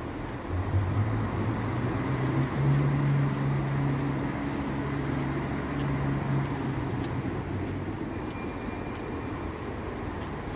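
Train running, with a steady rumble and a low engine drone. The drone rises in pitch about half a second in and again at about two and a half seconds, then fades away after about seven seconds.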